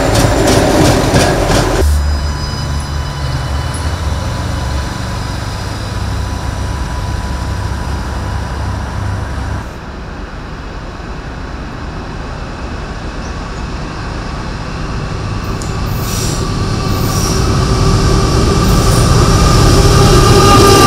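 Adelaide Metro 3000-class diesel railcar passing close, with wheel and rail noise and a squealing tone, cut off abruptly about two seconds in. A quieter low rumble follows, then from about sixteen seconds a Pacific National NR-class diesel freight locomotive approaches, its engine and wheel noise growing loud near the end.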